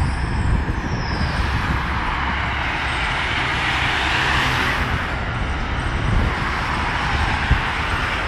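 Tofaş Doğan car driving fast in a race: engine and road noise in a steady, loud rush with a strong low rumble.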